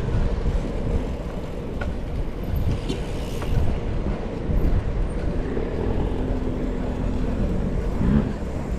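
Low, steady wind rumble on a camera microphone moving along on a bicycle, with a faint steady hum for a couple of seconds past the middle.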